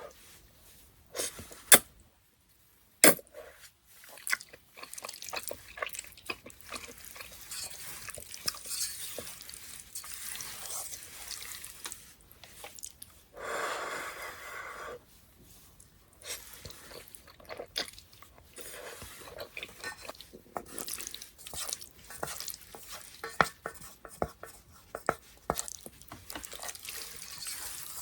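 Kitchen cooking sounds: metal utensils clinking and scraping in a pot with two sharp knocks early on, stirring, and a burst of running water about halfway through.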